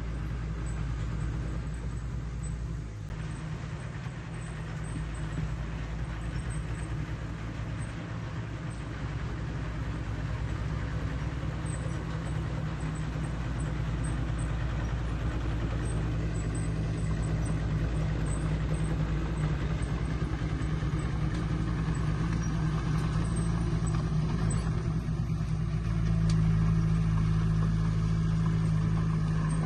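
Diesel engine of heavy earthmoving machinery running steadily, getting louder from about halfway through and again near the end.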